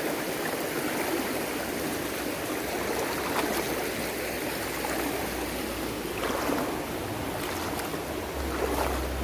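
River water rushing steadily over rocks, an even unbroken water noise; a low rumble joins in near the end.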